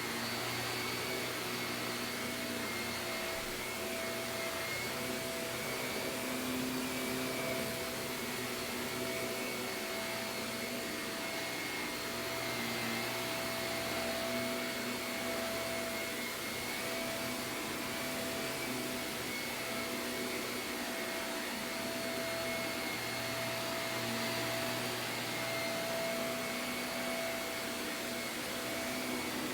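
Shark vacuum cleaner running steadily, its motor holding a constant whine.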